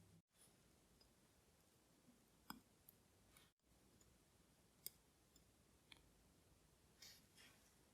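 Near silence with a few faint, sparse clicks of small tools on watch parts as the movement is taken apart.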